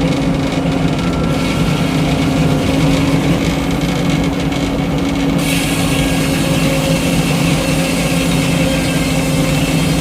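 Engine powering a Frick sawmill running steadily under a constant drone; about five seconds in, a brighter hiss joins it.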